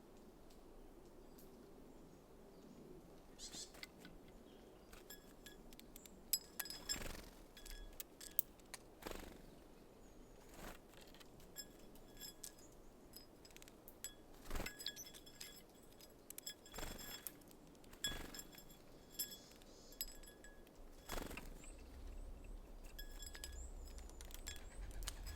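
Small birds feeding at a seed feeder: faint, irregular sharp taps and clicks of beaks and feet on the feeder and seeds, beginning a few seconds in, with thin high chips and calls among them.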